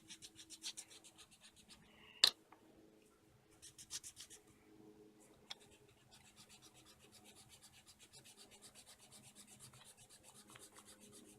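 Colouring strokes scratching back and forth across paper, faint, quick scribbles of about five strokes a second at first, then finer steady strokes. A sharp click about two seconds in is the loudest sound.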